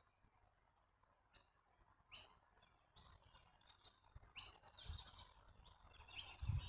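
Faint bush ambience with a few short, sharp bird chirps a second or two apart. Low muffled noise comes in during the last second or two.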